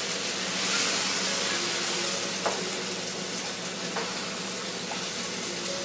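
Eggs and chopped tomatoes sizzling in a frying pan as they are stirred with a wooden spoon, with a few light knocks of the spoon in the pan.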